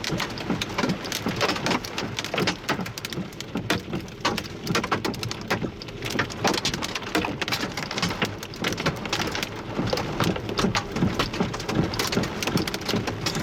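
Wind-driven hail of 2 to 3 inch stones striking in a dense, irregular clatter of sharp impacts over the hiss of the storm.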